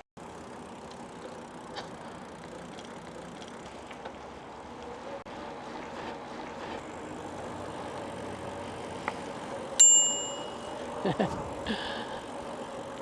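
A bicycle bell rung once with a sharp, clear ding that rings out for about a second, over the steady rolling and wind noise of a bike ride. A few short clicks follow.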